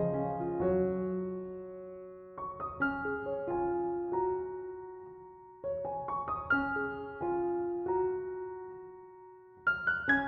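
Background piano music: gentle phrases of notes, each phrase starting fresh about every three seconds and fading away.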